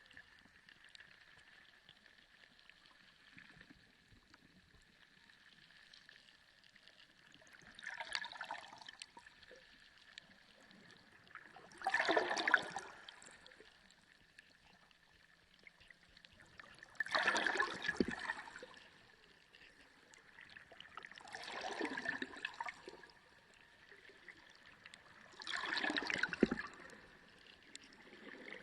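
Underwater sea sound: surges of water noise, each about a second long, coming roughly every four to five seconds over a faint steady background with a thin high tone.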